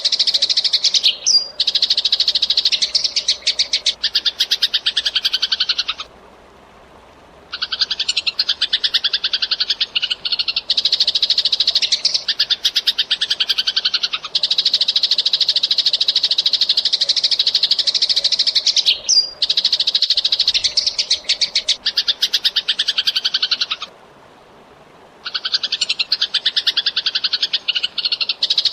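Eurasian tree sparrow chirping in fast, tightly packed runs, broken by two short pauses, about six seconds in and near the end.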